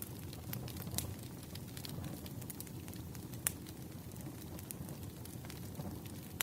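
Burning firewood crackling: irregular sharp pops and snaps over a low steady rumble, with louder pops about a second in and again about halfway through.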